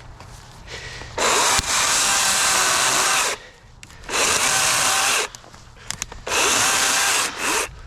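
DeWalt 60-volt brushless electric chainsaw with a 16-inch bar, running in three bursts of one to two seconds each, starting and stopping sharply as the trigger is pulled and released.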